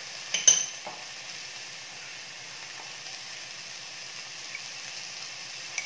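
Chopped tomatoes and onions sizzling steadily in hot oil in a steel kadai, with two sharp clicks about half a second in.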